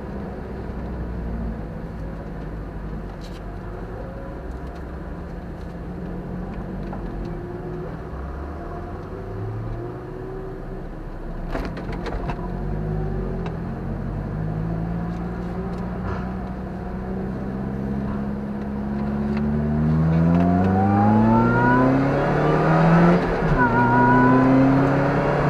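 Car engine heard from inside the cabin, running gently at low speed, then accelerating hard through the gears in the second half: the pitch climbs with each gear and drops at each shift.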